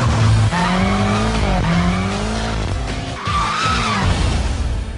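BMW M5 F10's twin-turbo 4.4-litre V8 revving hard while being driven fast, its pitch climbing and dropping back several times as it works through the gears.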